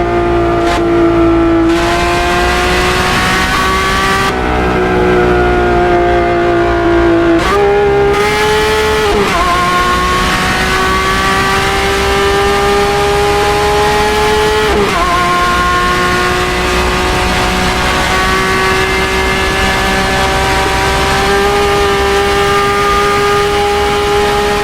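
Lamborghini Aventador SVJ's naturally aspirated V12 running through a Gintani aftermarket exhaust, held at steady revs. Its pitch creeps slowly upward and dips sharply a few times.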